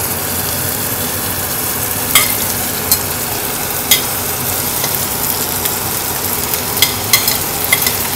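Mutton, garlic and oil frying in a stainless-steel pan with a steady sizzle, while sliced onion and green chilli are scraped in off a plate with a metal slotted spatula that clicks sharply against the plate and pan several times.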